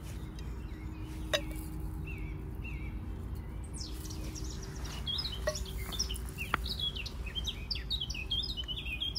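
Small birds chirping and twittering, a few calls at first and a busy run of quick chirps from about four seconds in, over a low steady background hum.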